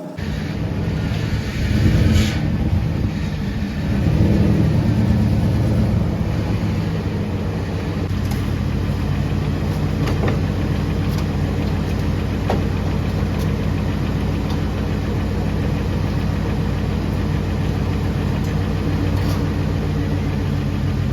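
Motor vehicle engine running steadily, with louder surges about two seconds in and again around four to six seconds in.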